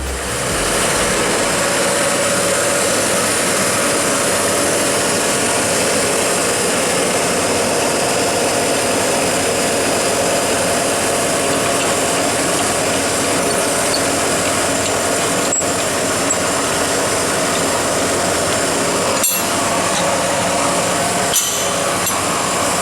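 Farm machinery running steadily, a loud, even mechanical noise, with a few sharp clicks near the end.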